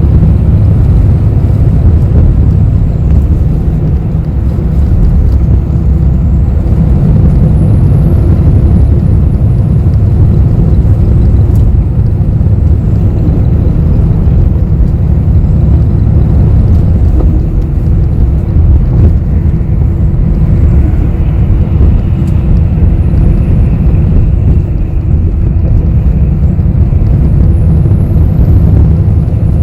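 Steady low engine and road rumble inside the cabin of a moving city bus, with a faint higher whine joining about twenty seconds in.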